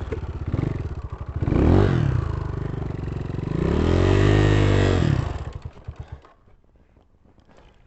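250 cc dirt bike engine revving, its pitch rising and falling twice, then fading out about six seconds in.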